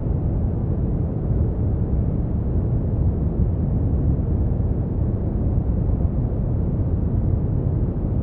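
Steady, unchanging brown noise: a deep, even rushing hiss, strongest in the bass and dull, with no treble.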